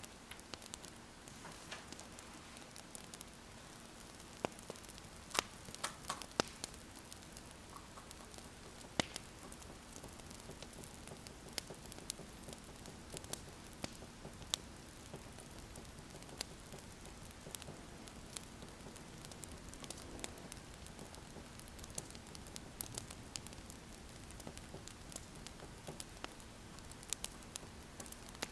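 Wood fire crackling, with many scattered sharp pops and snaps over a steady soft hiss. A pen scratching on paper is mixed in.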